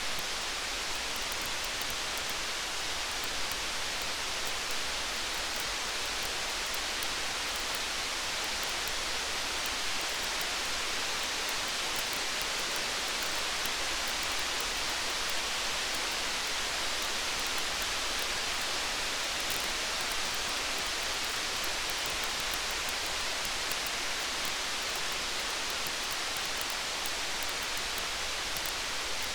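Steady rain falling, an even hiss, with faint small crackles of a campfire ticking through it.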